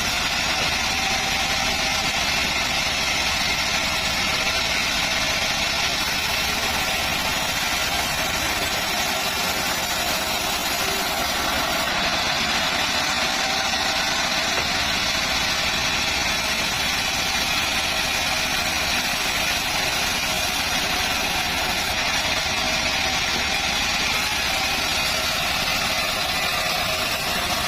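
Band sawmill running steadily, its engine-driven blade humming without a break.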